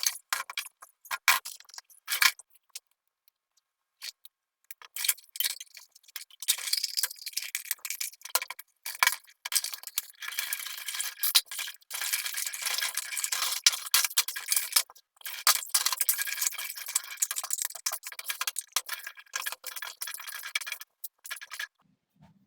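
Manual kitchen grinder being worked by hand on tomatoes: a fast run of clicking and rattling, pausing briefly about three seconds in and stopping shortly before the end.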